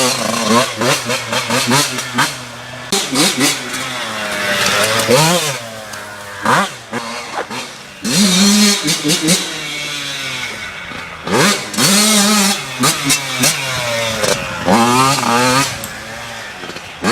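Yamaha YZ85 two-stroke dirt bike engine, revving hard again and again, its pitch climbing and then dropping back repeatedly as the rider works the throttle and shifts.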